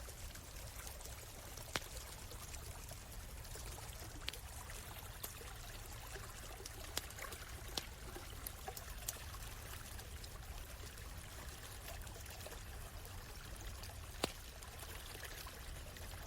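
A stream running and trickling steadily, with a few sharp single pops from a crackling campfire scattered through it.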